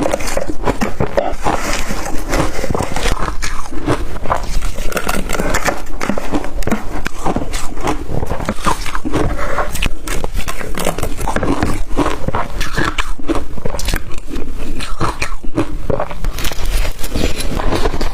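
Blender-crushed ice being bitten and chewed: a dense, continuous run of crunches.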